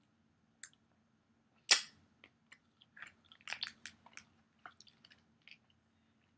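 A person chewing a wild boar and beef meat stick close to the microphone: one sharp snap a little under two seconds in, then a run of small wet mouth clicks and smacks.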